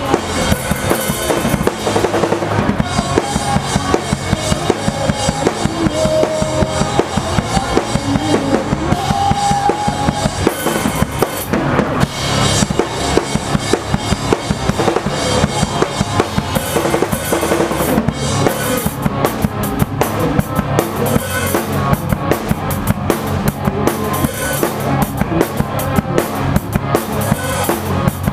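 A drum kit played live in a pop-punk band song, the kit up front: kick and snare driving a steady beat under the band, with the cymbals crashing heavily about halfway through and again in the second half.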